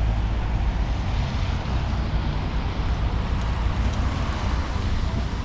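Steady low outdoor rumble with a hiss over it: wind buffeting the microphone and road traffic.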